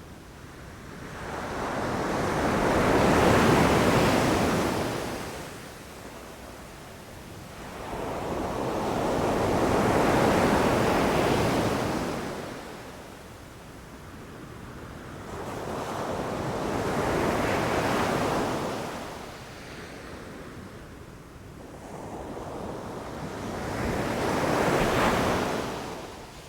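Sea waves breaking on a beach: four waves, one about every seven seconds, each swelling up into a rushing crash and then washing back down.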